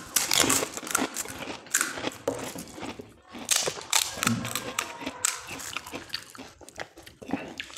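Crisp panipuri shells crunching as two people bite and chew them: a string of irregular sharp crunches.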